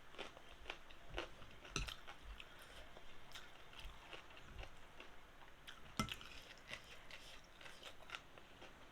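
Faint sounds of a person chewing and eating, with scattered light clicks and a sharper click about six seconds in.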